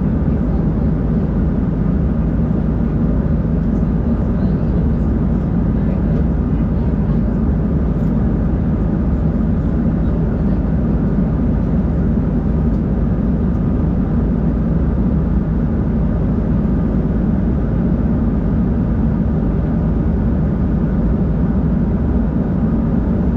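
Steady cabin drone inside an Embraer 190-E2 airliner, its Pratt & Whitney PW1900G geared turbofans running. An even, low-pitched noise with faint humming tones that neither rises nor falls.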